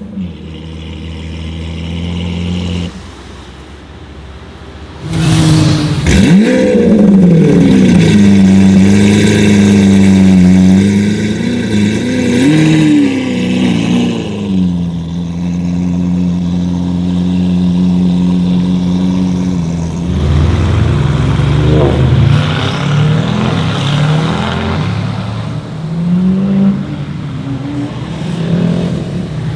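Lamborghini Aventador's V12 with an aftermarket Fi exhaust, running steadily and then, about five seconds in, revved repeatedly, the pitch rising and falling. It then holds a steady raised note for several seconds before a series of uneven blips and changes in engine speed.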